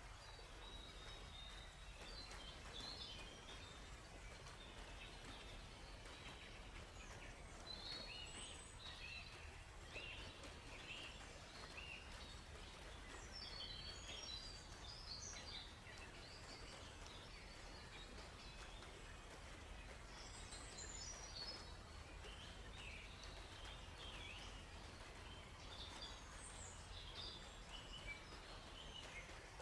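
Songbirds chirping in a forest, faint: scattered clusters of short, high notes over a steady low background noise.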